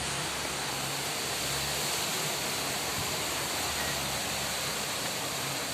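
Strong wind blowing: a steady rushing noise with no let-up.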